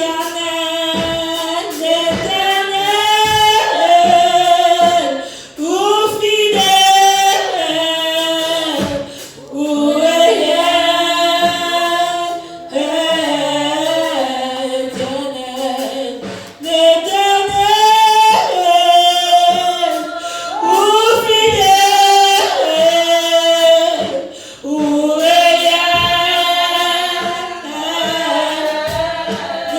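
A group of voices, mostly women's, singing a worship song together in phrases of a few seconds with short breaks between.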